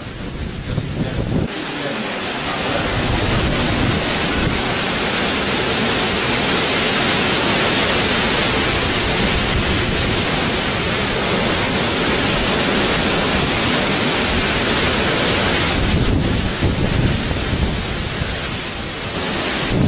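Storm in full force: a loud, steady rushing noise of wind and rain that swells about a second and a half in and eases a little around sixteen seconds.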